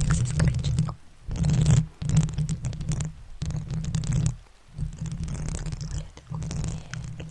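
Close-miked ASMR trigger sounds: scratching and rubbing right at the microphone, with a deep rumble under it, in stretches broken by brief pauses.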